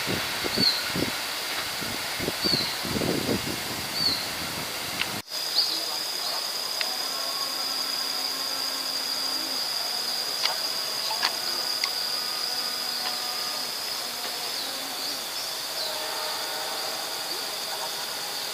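The tail of a passing passenger train, its wheels thumping unevenly over the rails, cut off abruptly about five seconds in. Then rural ambience: a steady high-pitched drone with occasional bird chirps.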